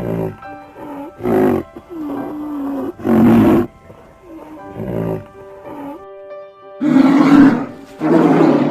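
A large animal giving loud, rough roars about six times in a row, each lasting under a second, over soft background music with held notes.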